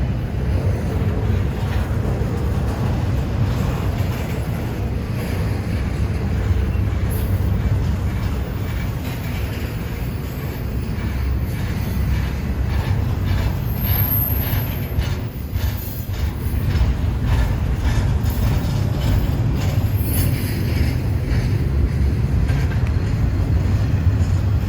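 Freight train rolling past: a steady, loud low rumble of the cars, with a run of rapid wheel clicks over the rail joints around the middle.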